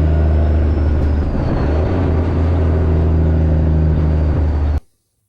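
Straight-piped diesel semi truck engine running steadily under way, a loud, deep exhaust drone. It cuts off suddenly near the end.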